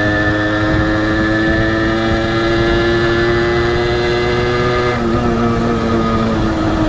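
Honda H100S two-stroke motorcycle engine pulling under way, its pitch slowly climbing as the revs rise; about five seconds in the pitch drops abruptly, as at a gear change, and then begins to climb again.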